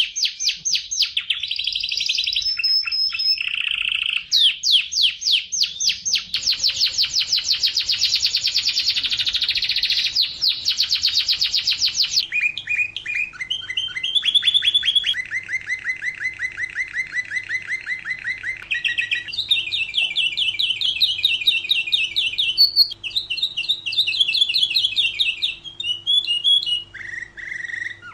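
Domestic canary singing a long, unbroken song of rapid trills: each phrase is one note repeated fast, switching to a new trill at a different pitch every second or few.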